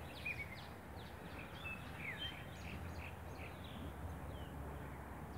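Small birds chirping, with short whistled notes here and there over a steady low outdoor rumble.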